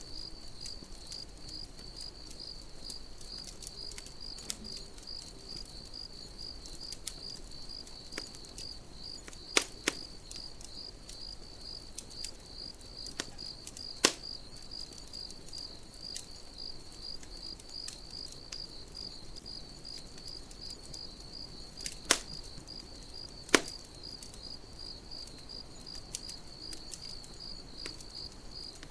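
Crickets chirping in a steady, evenly pulsing high trill, over a wood campfire crackling with small ticks and a handful of sharp pops, the loudest near the middle and about three-quarters through.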